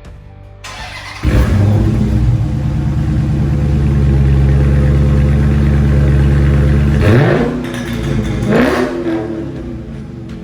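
Dodge Challenger Scat Pack's 392 Hemi V8 starting up about a second in and running loud at a steady fast idle through its exhaust, then two quick blips of the throttle near the end before it settles lower.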